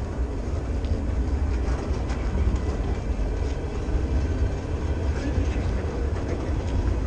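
Freight train's hopper cars rolling past close by: a steady low rumble of steel wheels on the rails, with scattered light clicks.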